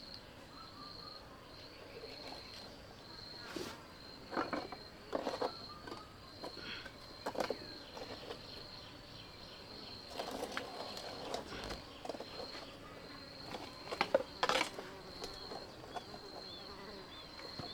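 Insects chirring in a steady, high-pitched pulsing tone. Scattered short knocks and clatters sound over it, loudest a few seconds in and again about three-quarters of the way through.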